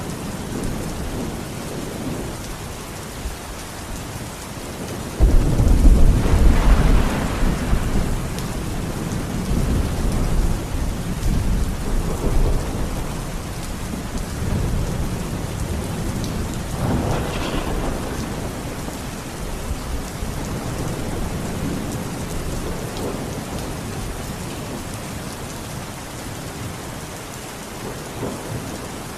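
Steady rain with rolling thunder: a loud low rumble breaks in suddenly about five seconds in and rolls on for several seconds, and softer rumbles swell again later.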